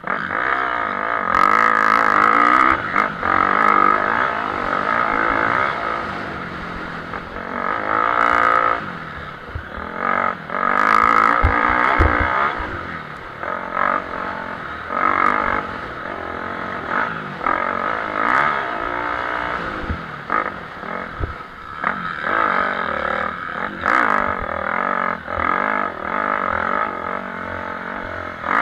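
Motocross bikes racing, their engines revving up and down with rising and falling pitch, growing louder and fading as they pass.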